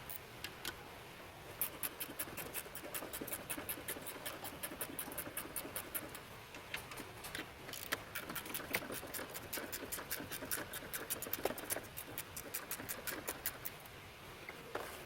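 Ratchet wrench clicking in a quick, uneven run of clicks as the strut mount's top nut is run off.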